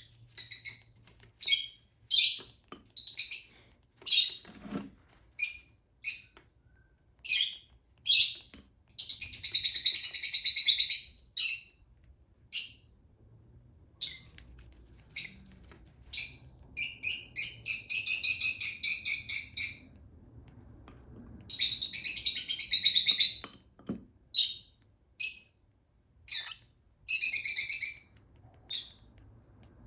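Baby Fischer's lovebird chick giving high-pitched begging chirps while being hand-fed: short chirps repeated throughout, broken by three longer, continuous bursts of calling lasting a couple of seconds each.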